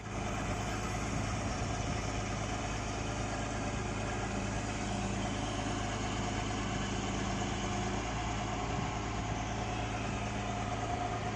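Amphibious excavator's engine running steadily at a constant speed, with an even hum.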